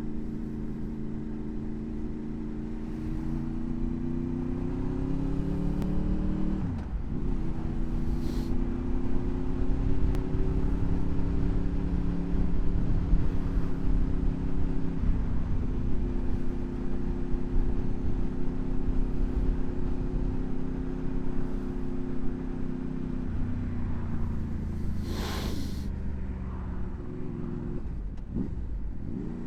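Honda VFR800's V4 engine under way with wind noise. The revs climb for about six seconds, dip at a gear change, then hold steady until they fall away near the end. A short whoosh comes about eight seconds in and a louder one a few seconds before the end.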